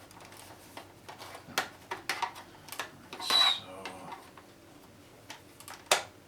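Small hand tools clicking, tapping and scraping against a boombox's cabinet as it is pried at to get the back open. There is a scraping rasp with a brief high squeak about three seconds in, and a sharp click near the end.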